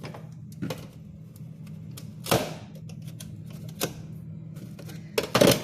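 Bags of frozen food being handled: scattered clicks and crinkles of plastic, with a louder rustle about two seconds in and another near the end, over a steady low hum.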